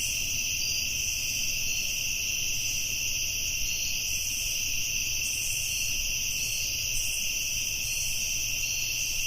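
Steady, continuous chorus of crickets chirring at night, a high, even shimmer, with a faint low hum underneath.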